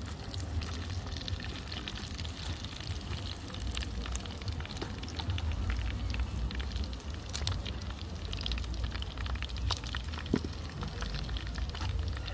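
Chicken pieces deep-frying in a pot of hot oil, with steady irregular crackling and spitting over a low rumble.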